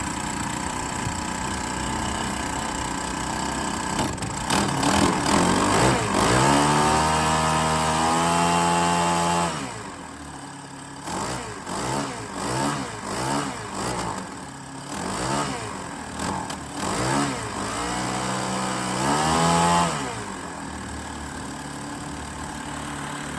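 Atom lawn edger's small petrol engine running on its newly fitted replacement carburettor. It idles, revs up about four seconds in and holds high revs, then drops back near ten seconds. It is blipped up and down several times, revved once more near eighteen seconds, and settles back to a steady idle.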